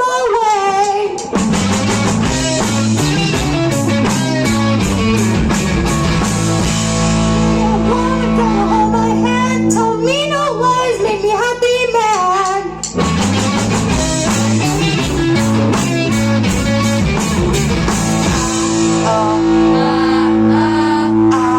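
Live rock band of electric guitar, bass guitar and drum kit playing a repeating riff, with a lead vocal singing at times over it.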